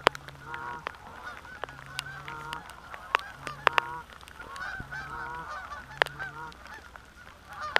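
A flock of Canada geese calling at close range: many overlapping honks and clucks, with a few sharp clicks.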